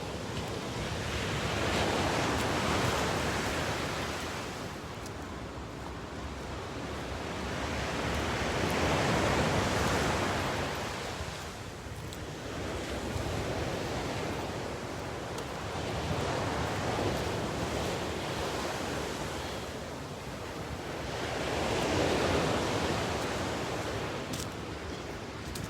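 Ocean surf: waves breaking and washing in, the rush swelling and fading every few seconds, with the biggest surges about two seconds in, around ten seconds, and near the end.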